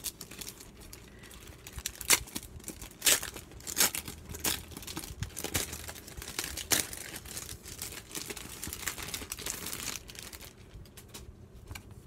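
Packaging crinkling and rustling in the hands, a run of sharp crackles that thin out near the end.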